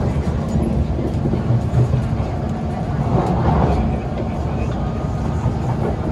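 Singapore MRT train heard from inside the carriage while running: a steady low rumble from the wheels on the track with a constant hum, and a brief swell of hiss about three seconds in.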